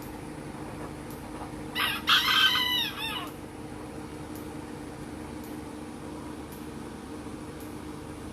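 A single crow from a fowl in the aviary, about two seconds in and lasting just over a second, its pitch falling in arcs. A steady low hum runs underneath.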